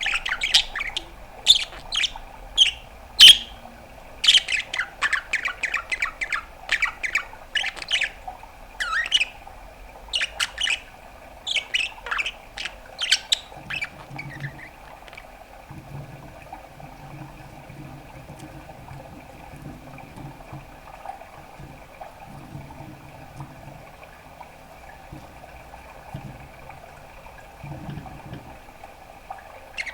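Budgerigar chattering in quick runs of squawks and chirps for the first half, then falling quiet apart from several stretches of low-pitched humming sounds in the second half.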